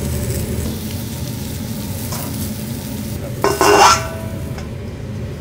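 Whole lobster sizzling on a hot teppanyaki steel griddle. A short, ringing metallic clang about three and a half seconds in comes as a steel dome cover is set down over it. After that the sizzle is muffled.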